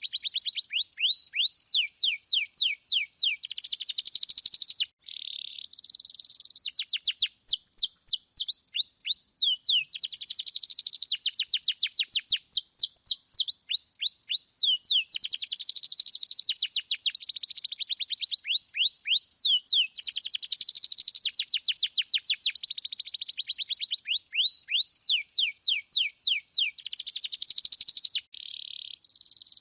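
Male domestic canary singing a long, clear, rolling song: fast runs of repeated notes, each sweeping downward in pitch, alternating with dense trills. There are brief breaks about five seconds in and near the end.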